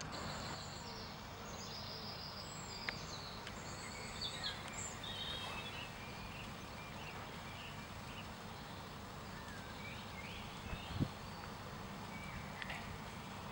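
Outdoor ambience of a steady low rumble, with small birds giving short high-pitched chirps, most of them in the first few seconds and a few more near the end. There are a couple of faint knocks.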